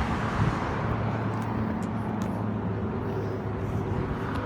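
Steady low hum of a running vehicle engine over outdoor traffic noise.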